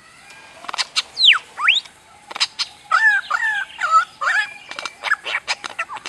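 A bird calling: sharp whistles that glide down steeply about a second in, then a run of quick repeated two-note calls, mixed with short sharp clicks.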